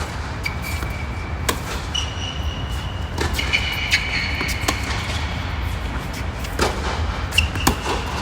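Tennis balls struck by rackets during a doubles point: a handful of sharp pops about a second or more apart, over a steady low rumble of traffic, with high squeaks held for a second or so.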